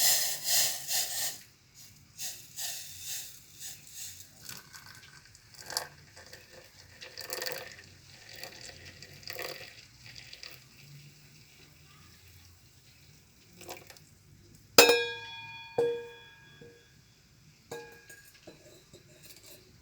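Coffee cup or glassware struck with a sharp clink that rings on in several clear tones, followed by two lighter clinks a second or two apart. Before that, over the first ten seconds or so, comes a run of irregular soft noisy bursts like handling or splashing.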